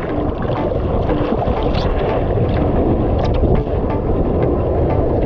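Wind buffeting the camera microphone on the open sea, a steady low rumble, with water splashing and sloshing around the paddleboard.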